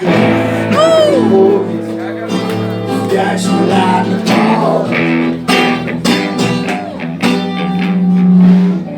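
Live song: a strummed acoustic guitar under a singing voice, with a loud held note near the end.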